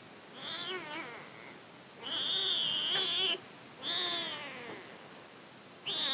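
Kitten meowing repeatedly in high-pitched cries, four calls, the second one drawn out longer than the rest.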